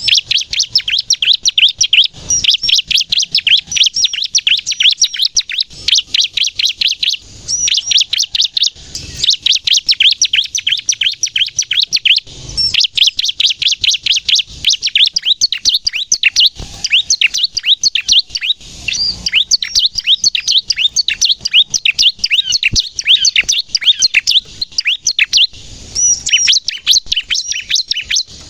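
Bar-winged prinia (ciblek) singing persistently in fast, rapid-fire high-pitched chirping phrases, broken by a few short pauses.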